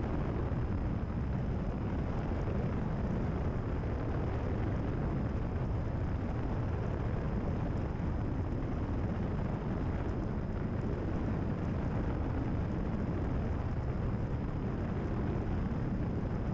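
Steady drone of a Cessna 172RG's four-cylinder Lycoming engine and propeller in flight, heard inside the cabin.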